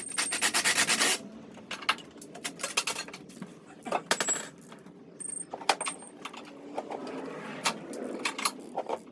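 Metallic clicking and clatter of hand tools working on a car engine. A fast run of clicks comes in the first second, then scattered clicks and rattles.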